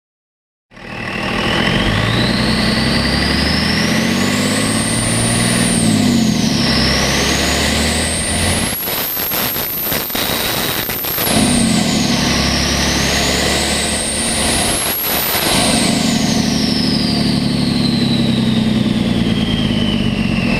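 A 24-valve Cummins diesel revved three times, its stock HX35 turbo whistling loudly with no silencer ring through an open homemade intake. The whistle climbs high with each rev and drops between them, then winds slowly down as the engine settles back toward idle.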